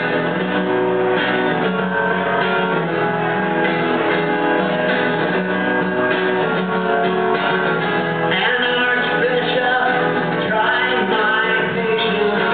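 Live band music: guitar playing with singing.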